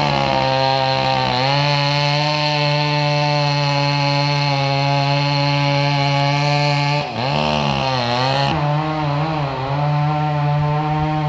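Chainsaw running at full throttle, cutting through maple wood. Its pitch dips and wavers about seven seconds in, then picks back up.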